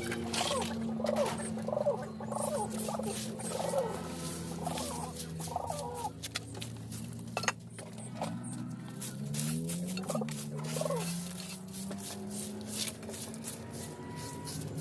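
Domestic birds calling, a stream of short chirps, with scattered clicks and taps and a low steady drone underneath.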